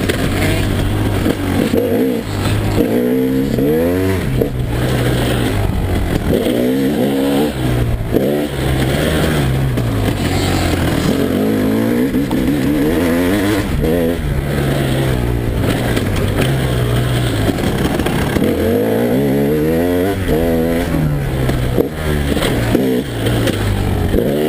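KTM EXC 300 two-stroke engine, heard on board, revving up and dropping back over and over as the throttle is opened and closed and the gears change.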